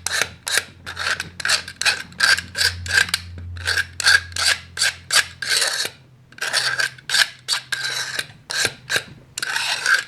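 A Stanley knife blade scraped rapidly up and down along the cut edge of a model-railway cobblestone sheet to take off the burr, about three strokes a second, with a short pause a little after halfway.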